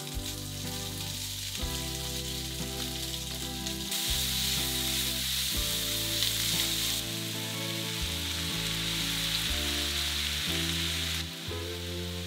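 Ham, sliced onion and vegetable strips sizzling in a frying pan over a gas flame while being stirred with chopsticks. The sizzle grows loud about four seconds in and falls off near the end as a heap of bean sprouts goes into the pan. Background music plays throughout.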